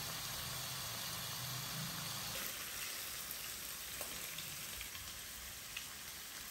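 Chicken pieces frying in oil in a pan, making a steady sizzle, with a couple of faint clicks.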